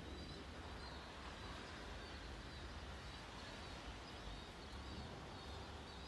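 Faint outdoor ambience with a steady low rumble, over which a small bird gives short high chirps about once a second.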